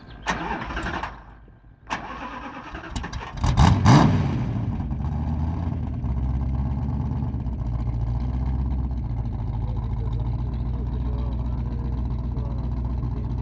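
Ford GT40's V8 engine cranked on the starter, catching about four seconds in with a short burst of revs, then settling into a steady idle.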